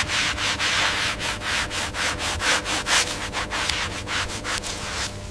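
Hand sanding on wood: quick back-and-forth rubbing strokes, about four a second, keeping an even pace.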